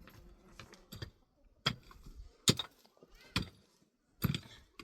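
A series of sharp strikes, about one a second, five in all, the loudest near the middle.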